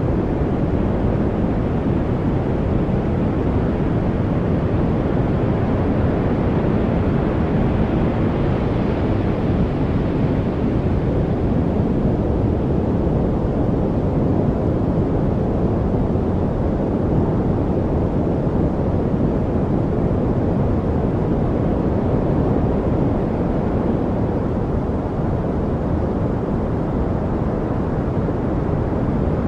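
Steady white-noise track: an even, deep rushing hiss with no distinct events, its upper range swelling slightly about a third of the way through.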